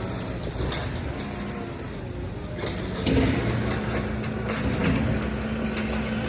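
Machinery rumbling steadily, with metal knocks and clatters from about halfway on. A steady motor hum comes in about halfway through as it gets louder.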